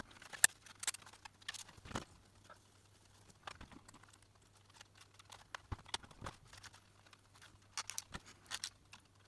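Scattered light clicks and taps of small hard parts being handled, a few in quick succession near the end, over a faint steady hum.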